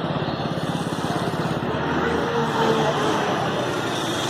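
Hyundai i20 engine idling steadily during an HHO carbon-cleaning treatment, an even low running note with no revving.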